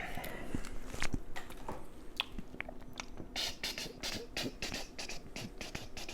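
Close-miked eating: chewing with wet mouth clicks, turning about halfway through into a quick run of crisp crunches, about three a second.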